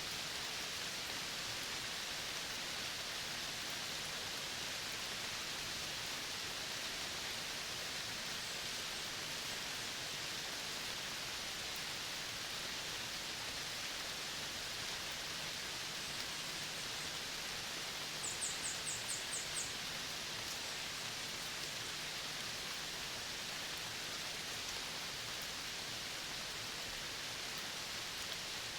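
Steady outdoor nature ambience: an even, high hiss of the kind made by an insect chorus or wind in foliage. About two-thirds of the way in, a quick run of about seven high chirps.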